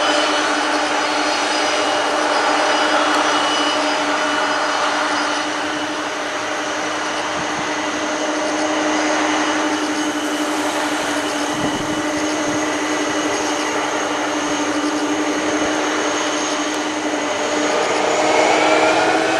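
Boeing 747-400F freighter's jet engines running with a steady whine over a hiss. Near the end the whine rises in pitch and grows louder.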